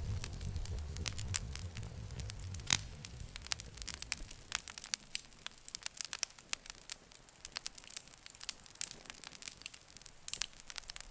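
Wood fire crackling, with irregular sharp pops and snaps and one louder pop nearly three seconds in. A low rumble of the flames sits under it at first and fades out about halfway through, leaving only the crackling.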